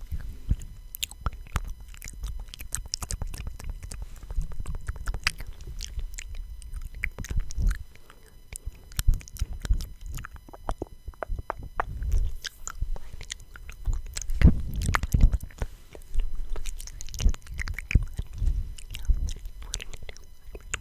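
Close-miked ASMR mouth sounds: an irregular run of wet clicks and smacks over a low rumble.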